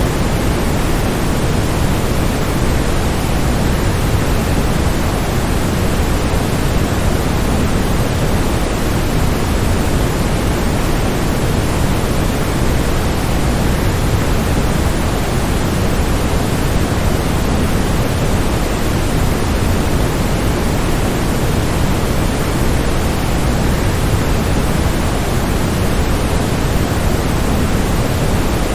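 Waterfall: a steady, even rush of falling water, heaviest in the low end, with no changes or separate events.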